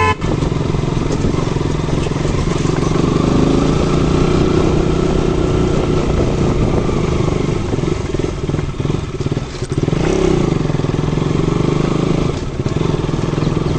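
KTM RC 200's single-cylinder engine running steadily as the motorcycle is ridden, with the level dipping briefly twice in the second half.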